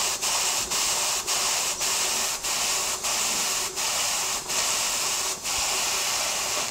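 Stuart model beam engine running on steam with a steady hiss, broken by brief rhythmic gaps in its exhaust beat. The beat starts at about two a second and slows to roughly one a second by the end.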